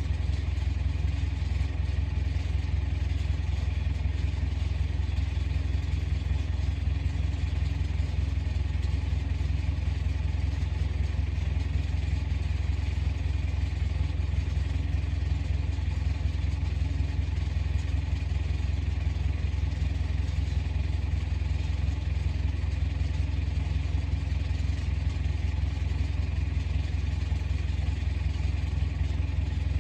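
Komatsu bulldozer's diesel engine running steadily at an even pitch and level.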